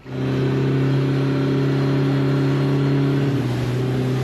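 Boat motor running steadily at a constant speed, its note shifting slightly a little after three seconds in.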